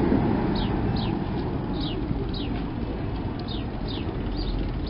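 A small bird chirping over and over, short high notes that fall in pitch, about two a second, over a steady low rumble of street traffic.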